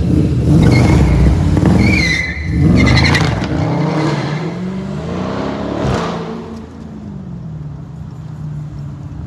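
A car engine revving, its pitch rising and falling several times, then settling to a steadier, quieter run about two-thirds of the way through.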